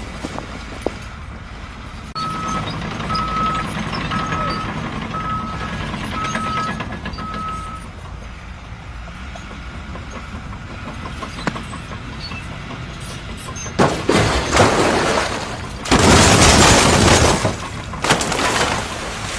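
A heavy vehicle's reversing alarm beeping about six times, roughly once a second, over the low running of its engine. Near the end come several loud noisy bursts, each lasting a second or so.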